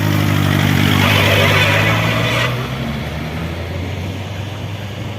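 Motorcycle engine idling steadily, with a louder rushing noise over it that cuts off abruptly about two and a half seconds in; a lower engine rumble carries on after.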